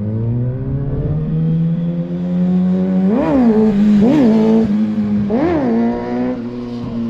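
Motorcycle engine climbing slowly in revs, then three quick throttle blips about a second apart, before the revs drop away near the end: the rider working the throttle to try to lift the front wheel in a wheelie.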